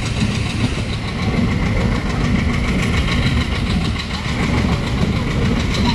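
Passenger train running steadily along the track: a continuous rumble of the carriage wheels over the rails, heard from the moving carriage.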